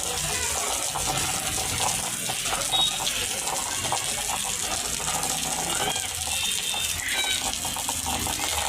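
Heavy rain pouring down, a steady hiss of falling water.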